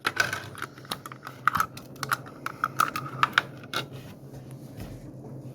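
Irregular sharp clicks and taps of hands handling small plastic toy-car parts and packaging on a table, thinning out about four seconds in.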